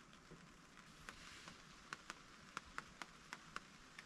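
Light rain, quiet: scattered drops ticking irregularly, a few each second, over a soft steady hiss.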